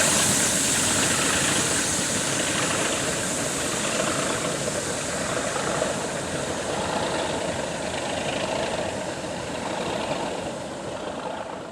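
Class 37 diesel locomotive's English Electric V12 engine running with a high hiss. The sound slowly fades as the locomotive draws away and drops off near the end.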